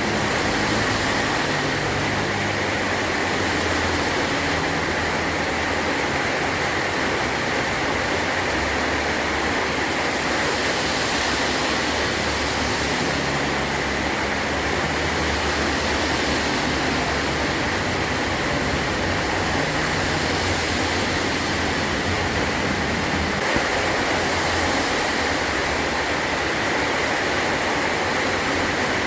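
Heavy rain falling steadily on a metal roof, an even hiss of drops with a low rumble that comes and goes underneath.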